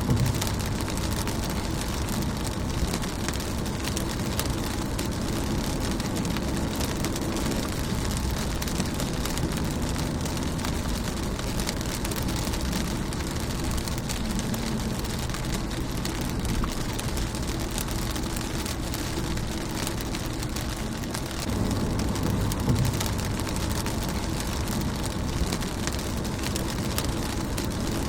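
Rain falling steadily on a car windshield, a dense patter of individual drops. A low rumble swells and fades about twenty-two seconds in.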